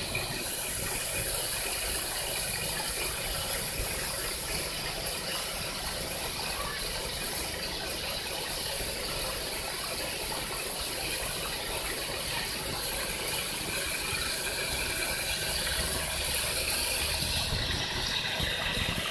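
Steady rush of running water, unbroken and even in level throughout.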